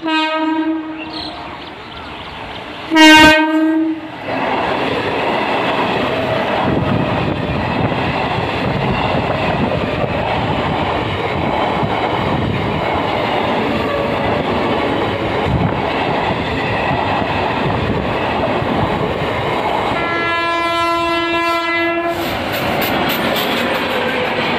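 Electric train horn sounds twice in the first few seconds, the second blast very loud. Then an Eastern Railway EMU local rushes through the level crossing with a steady rumble and wheel clatter. Another horn blast of about two seconds comes near the end as a long-distance express with LHB coaches passes.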